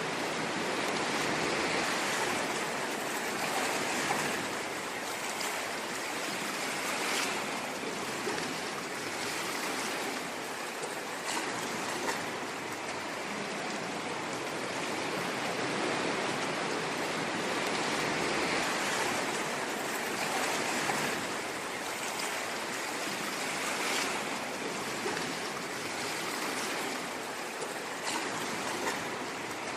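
Ocean waves washing on a shore: a continuous hiss of surf that swells and eases slowly every few seconds.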